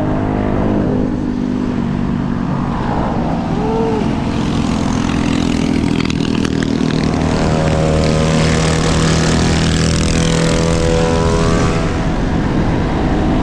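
Wind rushing over the microphone on a fast ride, with a steady motor hum underneath that settles onto an even pitch for the second half.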